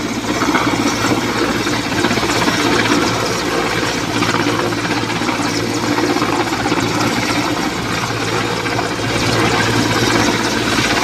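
Army helicopter's rotor and engine running close by: a loud, steady drone.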